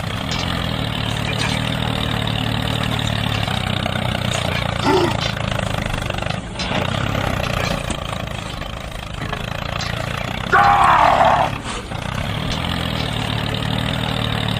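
Steady engine hum, the running sound of a miniature DIY tractor. A short pitched call comes about five seconds in, and a louder bending, voice-like call a little after ten seconds.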